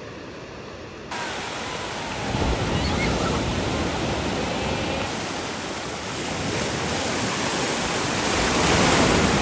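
Ocean surf: an even wash of breaking waves, coming in suddenly about a second in after a quieter start and swelling to its loudest near the end.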